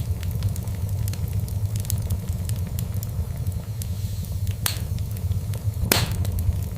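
Fireplace fire crackling steadily with many small snaps over a low rumble, and two louder pops near the end, the second the loudest.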